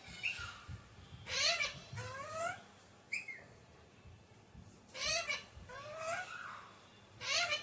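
Alexandrine parakeet calling: a run of short, loud calls, each rising in pitch, about seven of them roughly a second apart.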